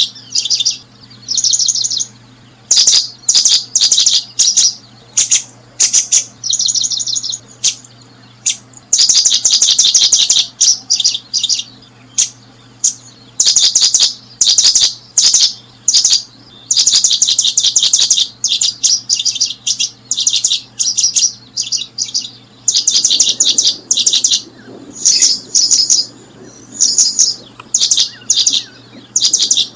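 Paddyfield pipits chirping: loud, high, rapid notes in bursts of about a second, one after another with only short gaps.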